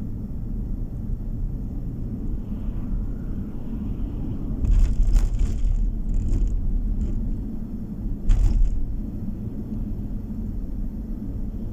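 Steady low rumble of a car's road and engine noise heard from inside the moving car, with two short louder jolts, one about five seconds in and one about eight seconds in.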